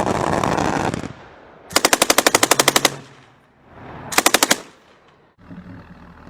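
Machine-gun fire in rapid bursts of about ten rounds a second: a longer burst of about a dozen rounds, then a short burst of about five, after a loud rushing blast about a second long.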